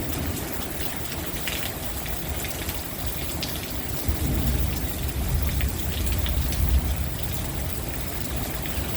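Torrential rain pouring down, with water spilling from overflowing house gutters and scattered drops ticking close by. A low rumble swells between about four and seven seconds in.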